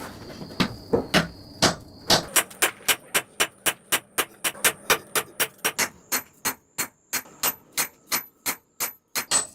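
Hand hammer striking a knife blank on an anvil: a few spaced blows, then a steady run of about three to four blows a second, each with a bright metallic ring.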